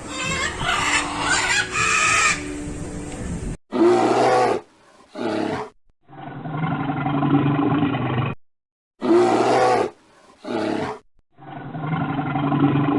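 A series of short animal calls spliced one after another, with abrupt cuts between them; a pair of calls, the second a long pitched call of about two seconds, is heard twice.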